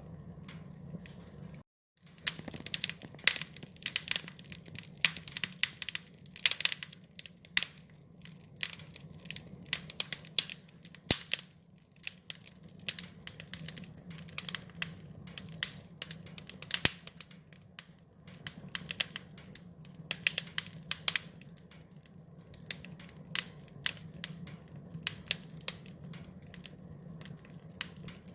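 Wood fire crackling: many irregular sharp pops and snaps over a low, steady rumble. The sound cuts out completely for a moment about two seconds in.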